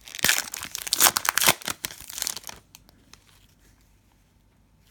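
Trading-card pack wrapper being torn open and crinkled, a dense crackle lasting about two and a half seconds.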